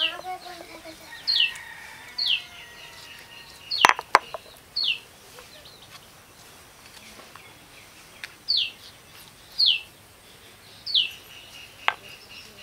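A bird repeating a short, clear whistled note that slides downward, roughly once a second with a pause in the middle. There are two sharp knocks about four seconds in and another near the end.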